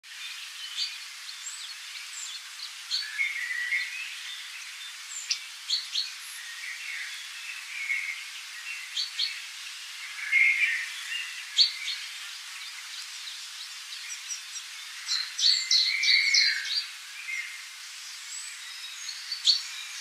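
Small birds chirping and calling, many short high notes and brief trills over a steady background hiss, busiest about three-quarters of the way through.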